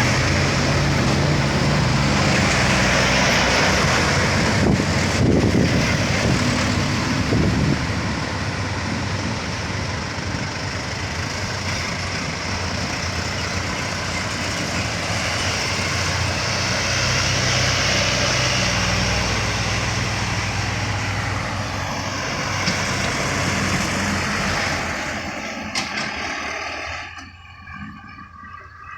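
Heavy three-axle tronton trucks in convoy grinding slowly up a steep bend, their diesel engines running loud and steady under load. The sound falls away near the end as they pass.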